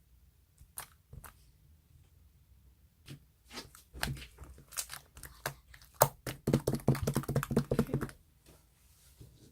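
A few sharp clicks, then a dense run of clicks and knocks that thickens over several seconds and stops suddenly near the end.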